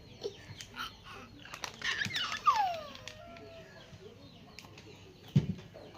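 Chickens: a burst of wing-flapping about two seconds in, with a loud falling squawk. Faint chirps run through the background, and a single dull thump comes near the end.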